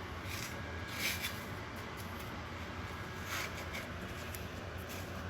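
Chicken breast being turned and pressed in dry breadcrumbs: a few soft, brief rustles over a steady low hum.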